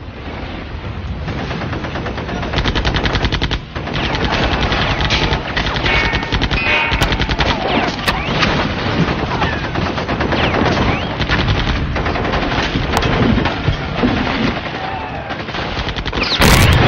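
Rapid automatic gunfire in long, near-continuous bursts, with a brief break a little before four seconds in and a louder stretch near the end.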